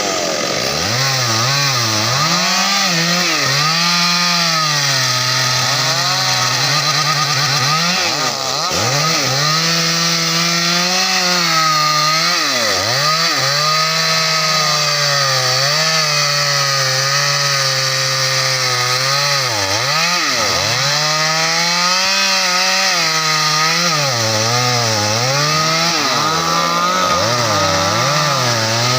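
Stihl MS 382 two-stroke chainsaw running at high revs while cutting teak branches. The engine pitch dips again and again as the chain bites into the wood under load, then climbs back.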